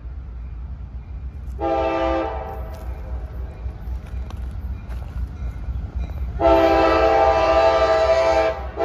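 Locomotive air horn on a CSX freight train sounding a short blast, then a long blast of about two seconds, over a steady low rumble of the passing train.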